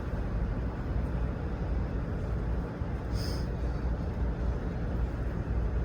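Steady low rumble of idling vehicle engines, with a brief high hiss about three seconds in.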